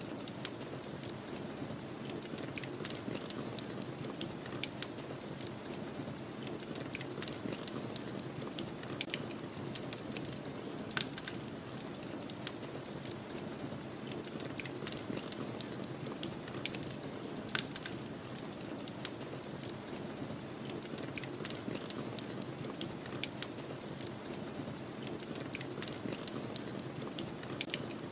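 Wood fire crackling, with frequent irregular sharp pops and snaps, over a steady low rushing of snowstorm wind.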